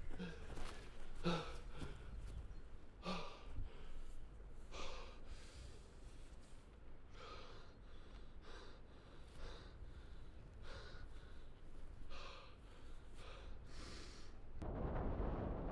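A person breathing heavily in audible gasps and sighs, one breath every second or two. Near the end a steady rushing noise takes over.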